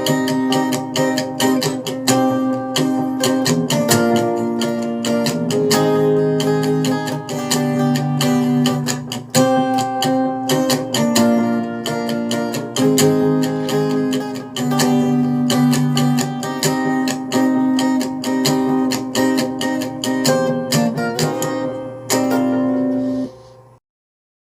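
Instrumental backing track played on acoustic guitar, with quick picked and strummed notes over chords. It ends on a final chord about 22 seconds in, which rings briefly and stops, leaving silence.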